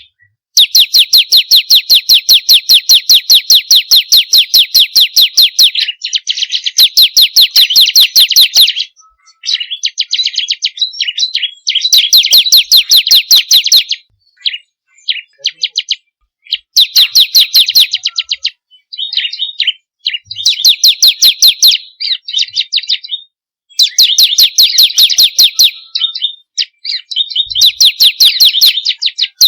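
Bar-winged prinia (ciblek kristal) singing loudly: long, fast runs of sharp repeated chip notes, about eight a second and several seconds each, broken by short pauses and quicker jumbled twittering phrases.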